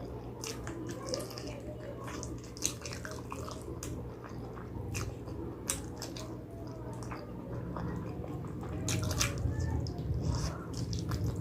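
Close-up wet chewing, with irregular sticky smacks and clicks of lips and mouth, from someone eating spicy pig trotters.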